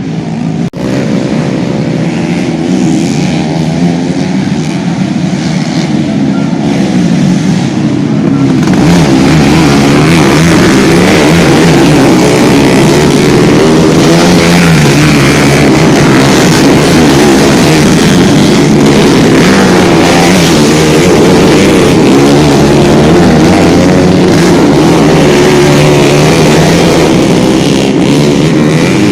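Several motocross bikes' engines revving together, their pitches overlapping and wavering up and down. The sound gets louder about eight seconds in and stays loud.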